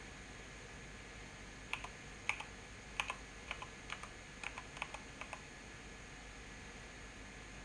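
Keys of a Corsair K95 mechanical keyboard being pressed one at a time: about eight keystrokes, each a quick double click of press and release, between about two and five and a half seconds in, over a steady faint hiss.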